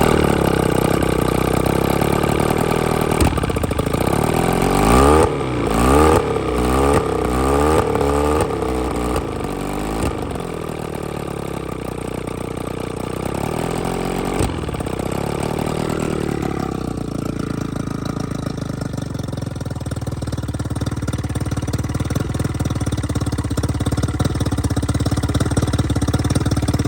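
Two-stroke outboard motor running, revved up and down several times a few seconds in, then settling to a steady idle. The owner thinks it needs new spark plugs.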